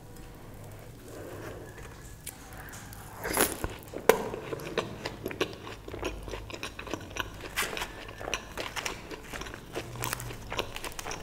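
A person biting and chewing crisp food close to the microphone: quiet at first, then dense crunching and crackling from about three seconds in, with the loudest crunch about a second later.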